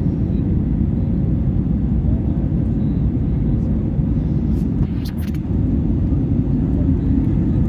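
Steady low rumble of an Airbus A320neo's engines and airflow in climb, with a few brief clicks about five seconds in.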